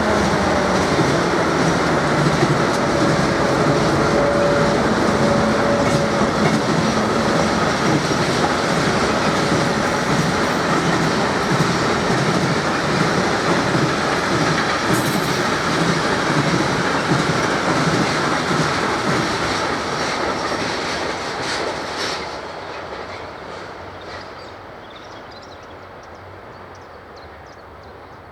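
Railway wagons rolling past on the track, wheels clicking over rail joints, with a brief wheel squeal a few seconds in. The sound fades away over the last several seconds.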